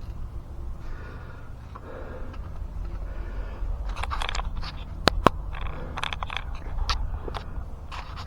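Hand tools working on metal: faint rustling at first, then a run of metallic clicks and scrapes from about four seconds in, with two sharp clinks just after the midpoint, as a wrench is worked on the 11 mm metric bolts of a pickup's drive shaft.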